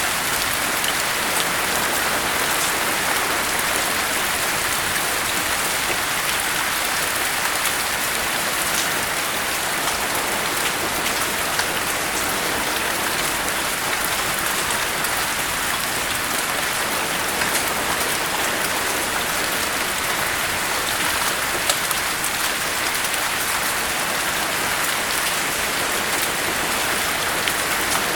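Steady rain, an even hiss of drops with fine patter ticks and no thunder.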